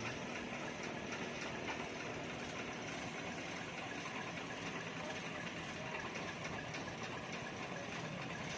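Truck engine running steadily, with road and traffic noise.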